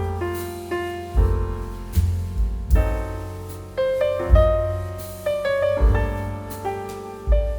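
Background piano music: struck chords and melody notes with deep bass notes, each dying away, a new chord about every second.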